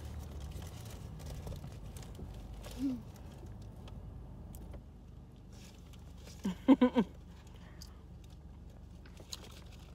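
Car idling, heard from inside the cabin as a steady low rumble. About two-thirds of the way through comes a brief, loud burst of a few quick pitched vocal notes.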